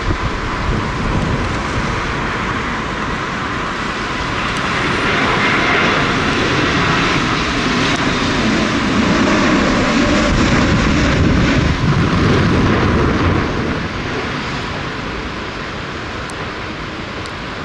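Jet airliner coming in to land, its engine roar swelling to a peak about halfway through and then fading, over strong wind rumbling on the microphone.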